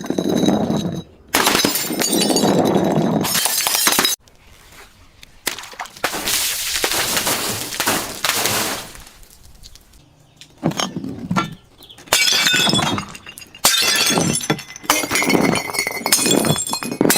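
Glass being broken and crushed: a run of loud shattering and crunching bursts, each lasting a second or more, with short pauses between them and bright clinking of shards in the later ones.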